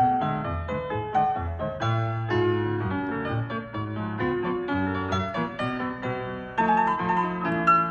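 Background piano music, a lively tune with a bouncing bass line.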